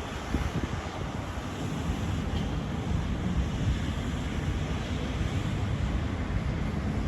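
Wind buffeting the microphone over a steady wash of city traffic noise, the low rumble rising and falling with the gusts.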